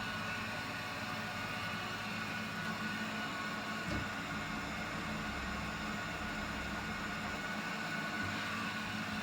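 Eufy RoboVac G30 robot vacuum running: a steady motor and fan whir with a thin high whine, and a brief knock about four seconds in.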